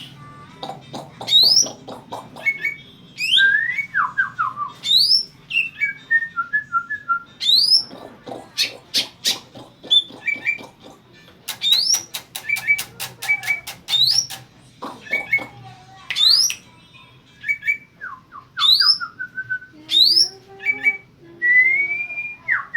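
Cucak ijo mini leafbird singing a varied song: sharp rising whistles repeated every second or two, short runs of falling notes, and bursts of fast rattling ticks.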